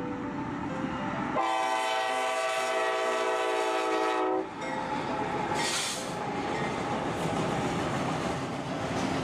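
Train running with a rumble and rail clatter. About a second and a half in, its horn sounds a steady chord for about three seconds. A short hiss comes near six seconds in.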